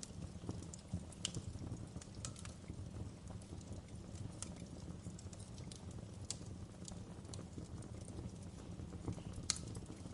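Wood fire crackling in a fireplace: irregular sharp pops and snaps over a low steady rumble, with the sharpest pop near the end.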